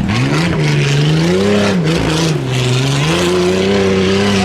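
Tuff truck's engine revving under hard throttle through an obstacle course. The pitch climbs, dips about two seconds in, then climbs again and holds high.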